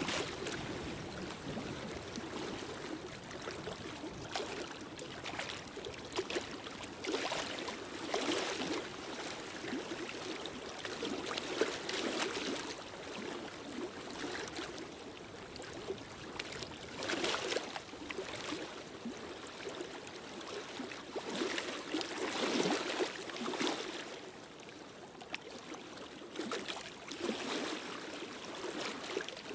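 Wood fire burning in a fireplace: a steady rushing with frequent irregular crackles and pops.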